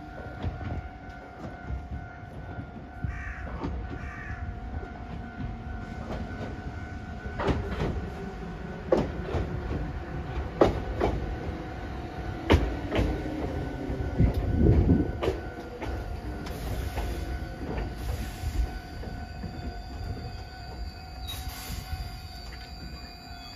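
Iyotetsu 610 series four-car electric train pulling into the station: wheels knock over the rail joints, then rumble and squeal as it brakes to a stop. A steady high tone sounds in the background.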